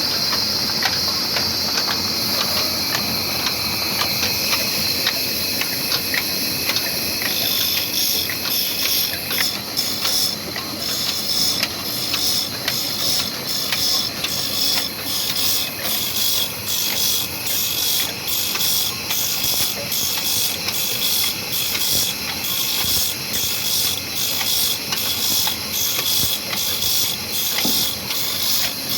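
22 hp, 300 rpm old black diesel engine running with a regular, even beat. A strong hiss in the first several seconds gives way to evenly spaced exhaust chuffs.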